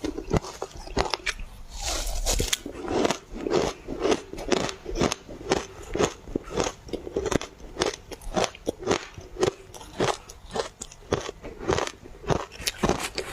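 Ice being bitten and chewed close to the microphone: a steady run of sharp crunches, about two a second, with a longer grinding crunch about two seconds in.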